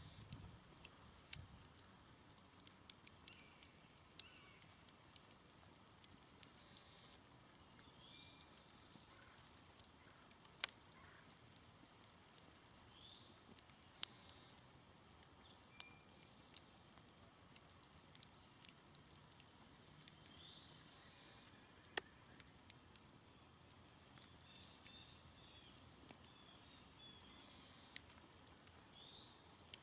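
Smouldering campfire crackling, with irregular sharp pops scattered throughout and several louder ones, over short bird chirps now and then in the background.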